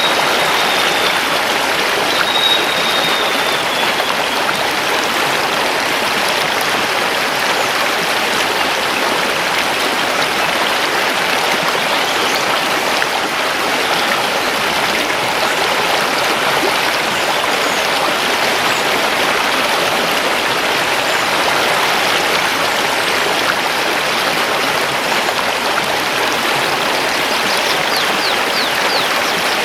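Mountain river rushing steadily over stones. A high bird whistle sounds faintly twice in the first few seconds.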